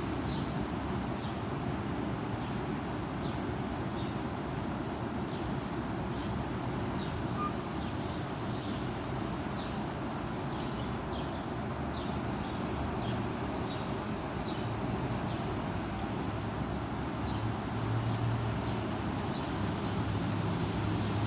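Strong wind blowing, a steady rushing noise that swells slightly near the end, with faint bird chirps scattered through it.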